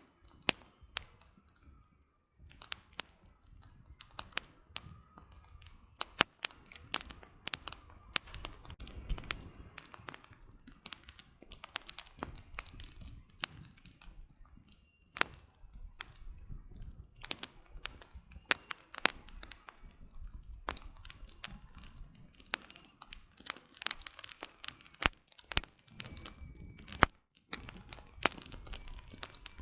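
Wood campfire crackling: a dense, irregular run of sharp pops and snaps from the burning firewood, some much louder than others.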